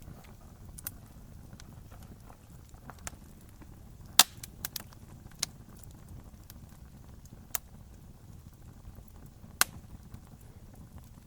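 Wood campfire burning with a low steady rumble and scattered sharp crackles and pops, the loudest pops about four seconds in and again near the end.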